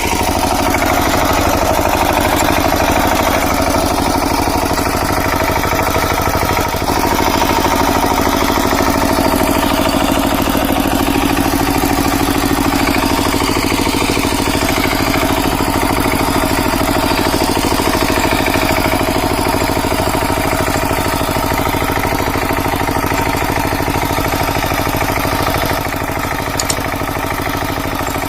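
Kamco power tiller's single-cylinder diesel engine running steadily, a fast even chugging, a little quieter for the last couple of seconds.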